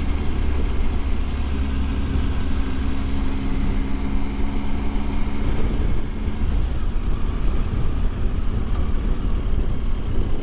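Triumph Tiger 800 XRx motorcycle's three-cylinder engine running on the move, under a steady rumble of wind and road noise. Its steady engine hum drops away about six and a half seconds in, leaving the rumble.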